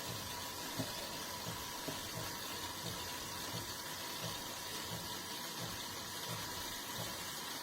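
De'Longhi Rivelia automatic espresso machine running mid-cycle while making a latte: a steady hum with a faint fluid hiss and a soft low pulsing about one and a half times a second.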